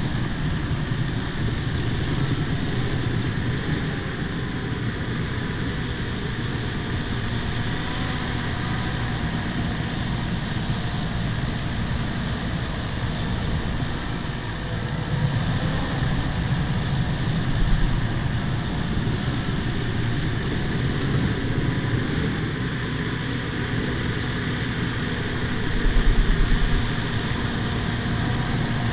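Bulldozer's diesel engine running steadily while it pushes topsoil, with a short low thump about 18 seconds in and a louder one about 26 seconds in.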